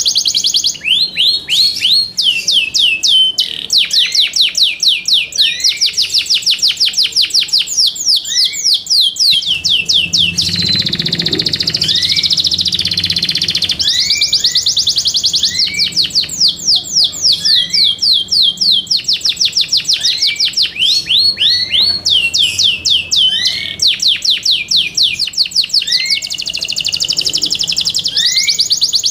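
Yorkshire canary singing: long fast trills of rapidly repeated high notes, broken by short separate rising whistles. Around the middle there is a longer held note.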